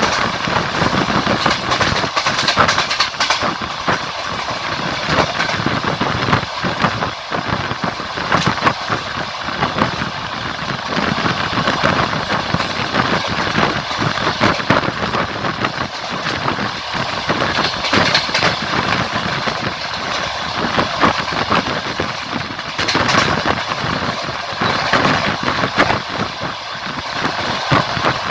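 Train running along the line, heard from on board: a steady rolling noise with the wheels knocking on the rails throughout.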